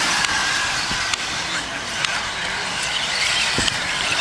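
A pack of 1/10-scale modified electric RC stadium trucks racing just after the start, their motors whining at high pitch with tyre and dirt noise, and a few sharp clicks from impacts.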